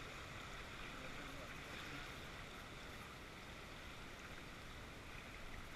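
Faint, steady rush of flowing river water around a raft.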